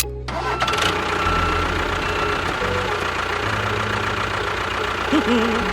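Engine sound, like a small tractor idling, comes in a fraction of a second in and runs steadily with an even low chugging beat.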